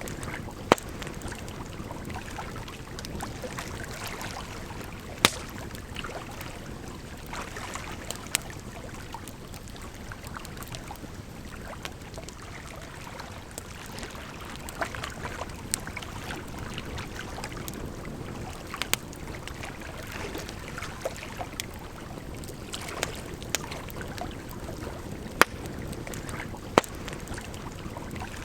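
Campfire crackling, with sharp pops every few seconds, over a steady rush of flowing water.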